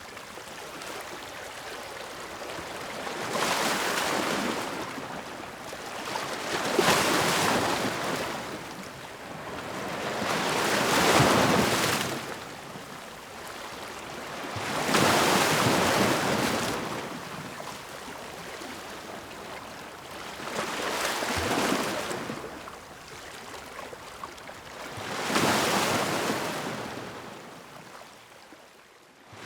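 Ocean waves breaking and washing on the shore, about six waves swelling and falling away, roughly one every four seconds. The sound fades down near the end.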